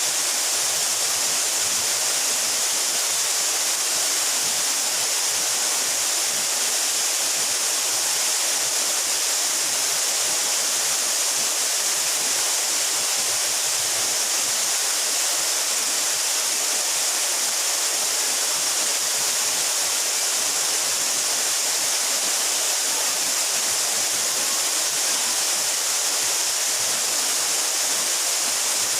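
A 12-metre mountain waterfall pouring and splashing with a steady, unbroken rushing hiss.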